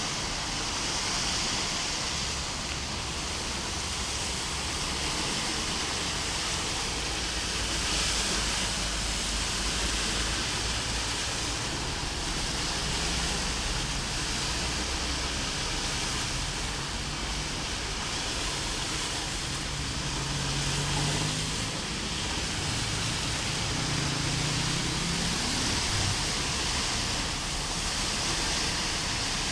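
Heavy rain and floodwater rushing down a street, a steady hiss with a low rumble underneath. A faint low hum rises and falls a couple of times in the second half.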